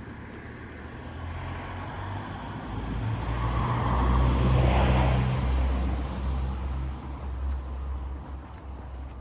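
A car driving past: engine hum and tyre noise build up, peak about halfway through, then fade away.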